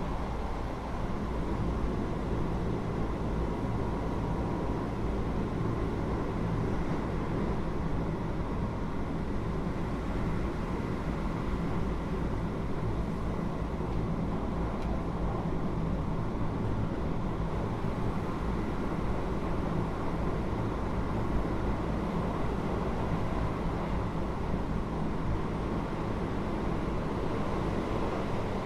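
Keio 8000-series electric train with GTO-VVVF control running, heard inside the passenger car that sits over the main controller: a steady rumble of wheels on rail with a low motor hum.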